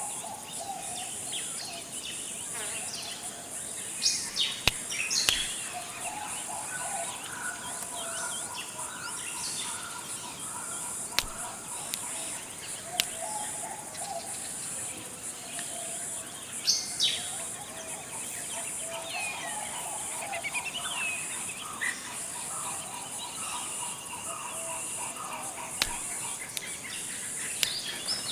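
Forest ambience: a steady high insect drone under scattered bird calls and chirps, with the loudest bursts of calls about four seconds in and again around seventeen seconds. A few sharp clicks are heard.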